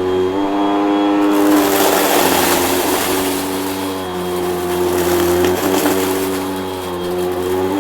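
Vacuum cleaner motor running with a steady whine whose pitch shifts slightly as the load changes. From about one and a half to four seconds in, a loud rushing hiss of air joins it.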